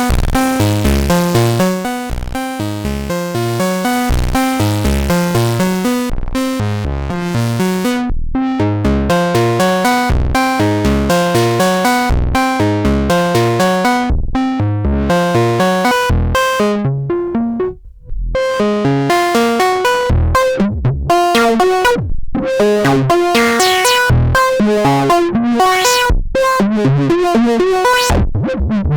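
Novation Bass Station II analog monosynth playing a driving eighth-note sequencer pattern of short, repeated pitched bass notes. The tone grows brighter in the later part. The sound drops out briefly about two-thirds of the way through, then the pattern resumes.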